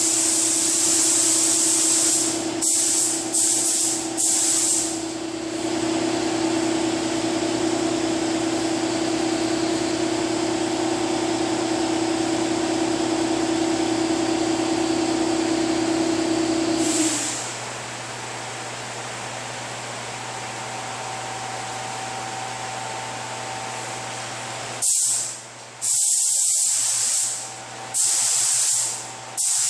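Air spray gun hissing as its trigger is pulled: a long spray, then a few short bursts, a pause, and several more short bursts near the end. A steady hum runs underneath and stops a little past halfway.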